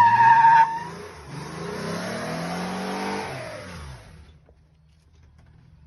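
A truck driving past. A high tyre squeal cuts off within the first second, then the engine note falls in pitch and fades away about four seconds in.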